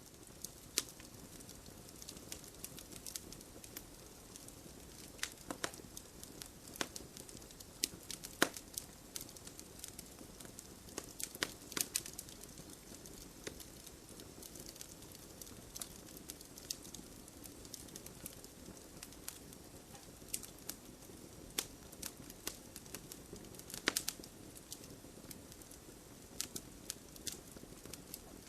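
Wood campfire burning: a steady low rush of flame under irregular sharp crackles and pops from the burning wood, with a few louder pops scattered throughout.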